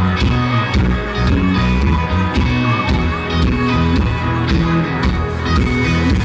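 Live country band playing loud amplified music: a steady drum beat, heavy bass and electric guitar.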